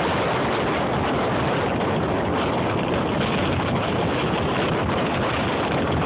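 Strong blizzard wind buffeting the microphone, a loud, steady rush of noise.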